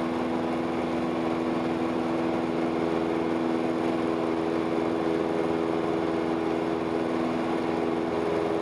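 Steady drone of a Cessna 172S's four-cylinder Lycoming engine and propeller at climb power, heard inside the cabin.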